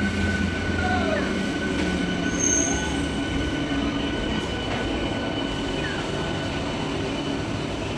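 Indian Railways train running through the station, wheels rumbling on the track with a steady high-pitched wheel squeal held throughout, the sound easing off slightly toward the end.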